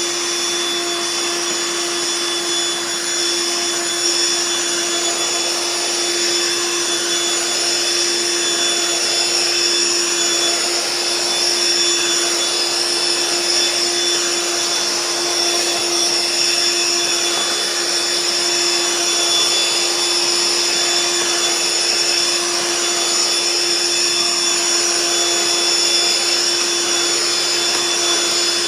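Eureka The Boss bagless stick vacuum running steadily, a constant motor hum under a high whine and rushing airflow. It has no brush roller, so this is suction alone as it is worked over carpet.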